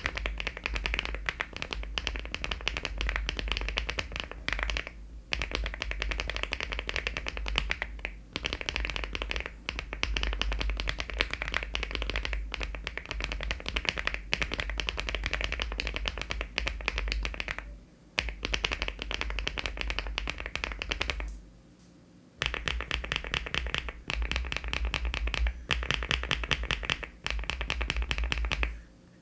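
Fast, continuous typing on a LEOBOG Hi75 aluminium mechanical keyboard with HMX switches and Cherry-profile keycaps, a dense run of keystroke clacks. It breaks off briefly a few times, with a longer pause about three-quarters of the way through.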